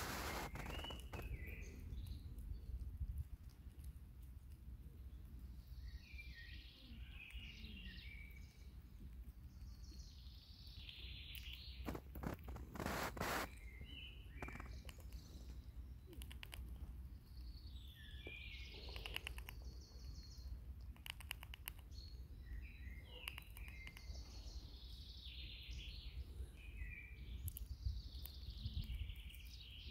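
Small birds chirping in short repeated phrases every few seconds over a low steady outdoor rumble, with clusters of sharp clicks about twelve seconds in and again later.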